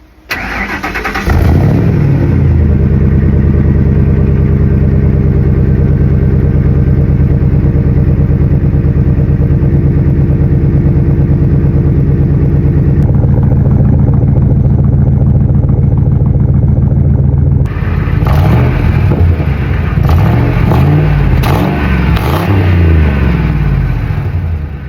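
2002 Ford F-150's 5.4L Triton V8 through a Carven R exhaust, starting up and settling into a steady idle within about a second. After a long idle it is revved several times, the pitch rising and falling with each blip, then drops back toward idle near the end.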